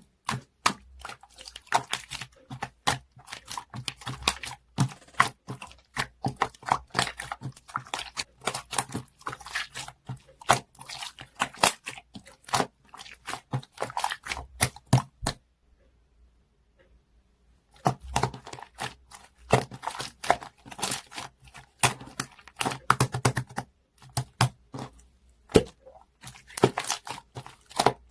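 Rapid, irregular clicking and rustling from close-up handling, with a pause of about two seconds a little past the middle.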